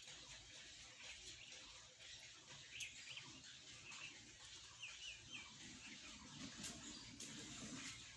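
Faint room sound with a few short, high bird chirps about three to four seconds in, and a few light clicks.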